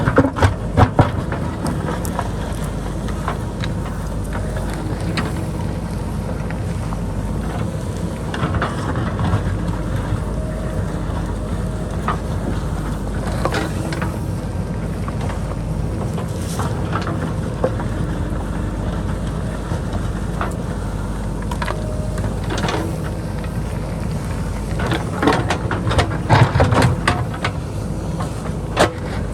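JCB backhoe loader's diesel engine running steadily under load, with sharp knocks and clatters of rock and earth as it digs, several about a second in and a denser run near the end.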